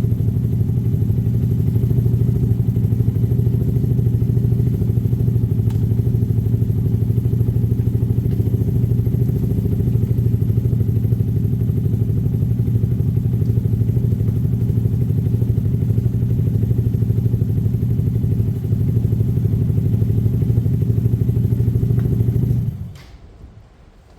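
Herald motorcycle engine running steadily at an even speed, then cutting off suddenly near the end.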